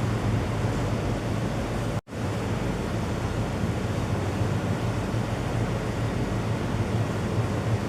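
Steady rushing noise with a low hum underneath. It cuts out for an instant about two seconds in, then carries on.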